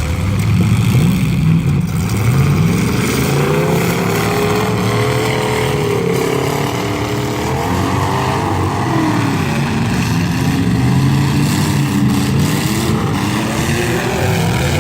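Engines of several stock demolition derby cars and trucks revving at once, their pitches rising and falling as they accelerate and back off.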